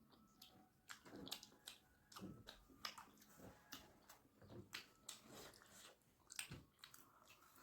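Faint close-up eating sounds: chewing and wet mouth smacks with irregular soft clicks, about one or two a second.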